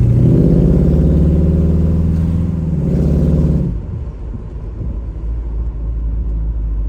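1969 Pontiac Firebird's 350 V8 accelerating hard under throttle through its dual exhaust, then easing off a little over halfway in and settling to a quieter, lower running sound.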